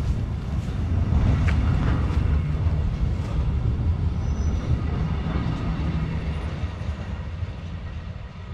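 Freight train running on the rails: a steady low rumble with a few sharp clicks, slowly getting quieter over the second half.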